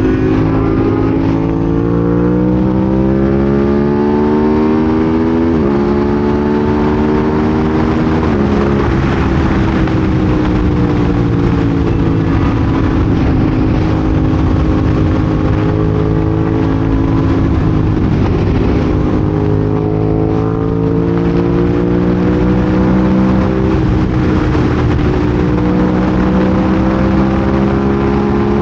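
Aprilia RS660 motorcycle engine under way: its pitch climbs under throttle, drops sharply at two quick upshifts about six and eight seconds in, then eases off and rises again several times. A steady rush of wind and road noise runs underneath.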